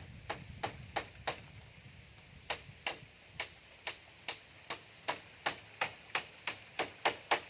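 Hammer blows, each with a short bright ring: four quick strikes, a pause of about a second, then a steady run of about fourteen more, two to three a second.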